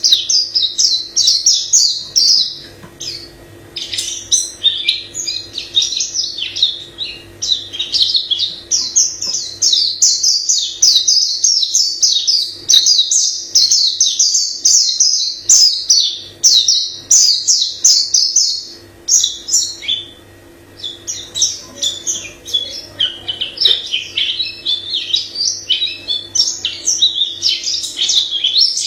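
White-eye singing a long, varied song of rapid high chirping phrases, breaking off briefly about two seconds in and again about twenty seconds in. A faint steady hum runs underneath.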